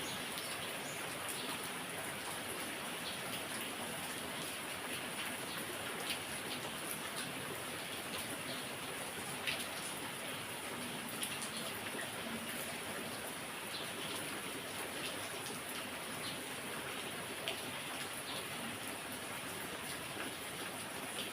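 Heavy, steady rain falling, with individual drops ticking sharply on a surface here and there.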